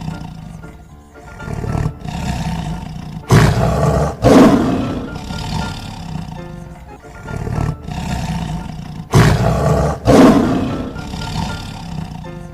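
Tiger roaring over children's background music, the loudest roars coming in two pairs, the second pair about six seconds after the first.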